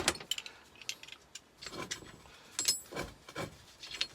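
Metal fire extinguisher parts being handled: a scatter of light clicks and knocks, a few with a short metallic ring.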